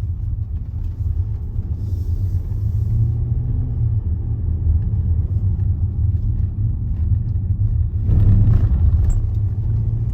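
Steady low rumble of a car driving on a narrow country road, heard from inside the cabin: engine and tyre noise, swelling briefly near the end.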